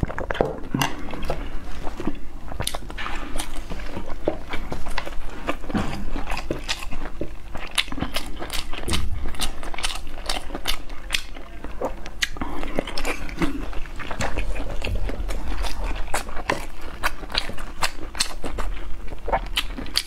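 A person chewing and biting into steamed dumplings close to a clip-on microphone, with many wet mouth clicks and lip smacks.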